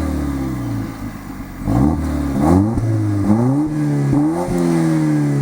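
Volvo S60 Polestar's turbocharged and supercharged 2.0-litre four-cylinder engine running hard: after a brief drop in level, its pitch sweeps upward in several quick rises, then falls slowly and steadily near the end as the revs come down.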